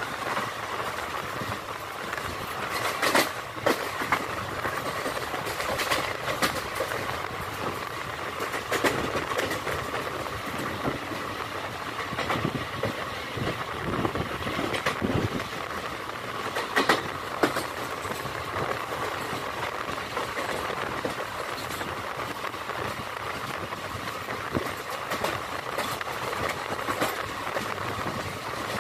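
Passenger train running at speed, heard from an open coach doorway: a steady rumble and rush with wheels clacking over rail joints now and then.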